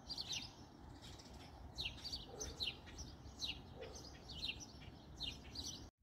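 Small bird chirping over and over: short, falling chirps at irregular intervals, faint.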